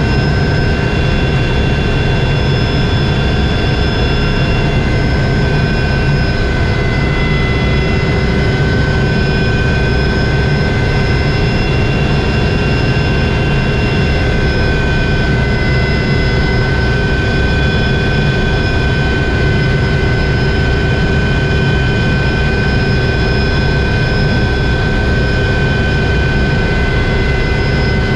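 Helicopter running steadily: a loud, even drone of engine and rotor with a constant high whine over it.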